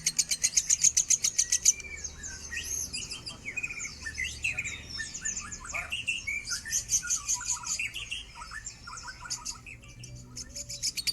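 Lovebird singing: a fast, rattling trill of rapidly repeated shrill notes breaks, about two seconds in, into a varied warble of squeaky chirps and gliding whistles. The fast trill starts again near the end.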